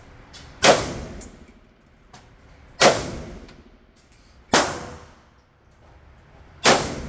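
Four single gunshots from a firearm at a shooting range, fired at an even pace about two seconds apart, each with a short echoing tail.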